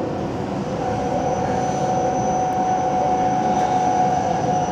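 Nagoya Municipal Subway 7000 series electric train running, heard from inside the passenger car: a rumble of wheels on the track under steady whining tones from the traction motors. A higher whine grows stronger about a second in, and the sound swells slightly as it goes.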